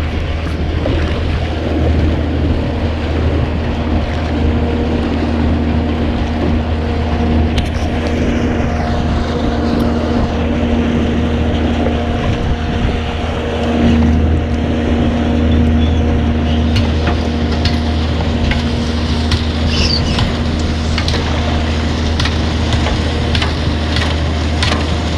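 Motorboat engine running at a steady speed, heard from on board, with light knocks near the end.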